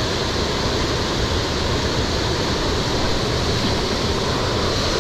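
Steady rushing noise of wind and rain, with wind buffeting the microphone.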